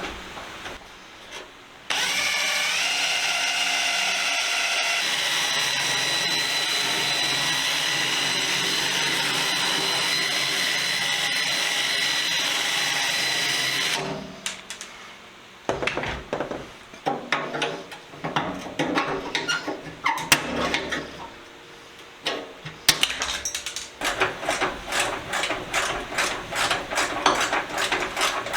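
Power drill spinning up about two seconds in and running at a steady whine for about twelve seconds while drilling off a clevis fitted to a rolling tool box. It then stops, and a run of irregular taps and clinks follows.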